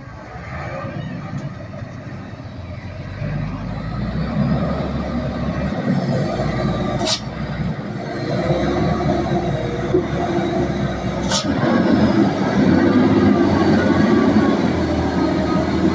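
Heavily loaded Hino dump truck's diesel engine running at low speed, growing steadily louder as it comes closer, with two sharp clicks about seven and eleven seconds in.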